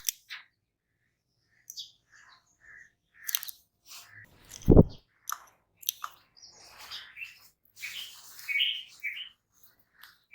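Jungle babblers giving scattered short squeaky chirps and chattering calls, irregular, with brief quiet gaps. A single loud low thump comes a little before halfway.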